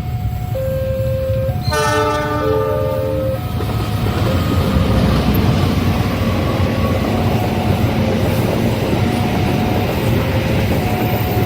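A level-crossing warning signal chimes in two alternating tones. About two seconds in, a locomotive sounds one horn blast of a second and a half, and then the train runs past with a heavy rumble of wheels on the rails while the crossing signal keeps alternating.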